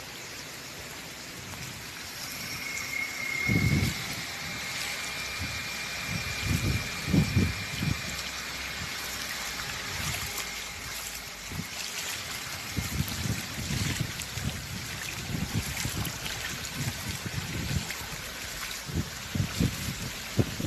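Rushing floodwater: a steady noisy wash, with irregular low rumbles every few seconds.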